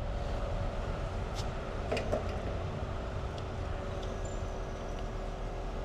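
Engine idling with a steady low hum, with a few light clicks and taps over it.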